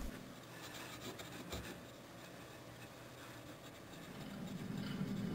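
Faint rubbing and scratching as Blue Job polish is worked over rust on a chrome motorcycle exhaust pipe. A low steady hum builds up again from about four seconds in.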